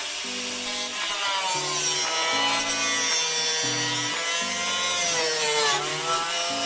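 Power cutting tool working through the car's sheet-metal floor brace, its motor pitch sagging as it bites and recovering, with a deep dip near the end. Background music with a stepping bassline runs underneath.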